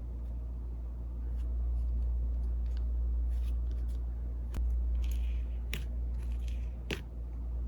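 Slime being handled close to the microphone: sparse faint crackles and a few sharp clicks, about one every second in the second half, over a steady low hum.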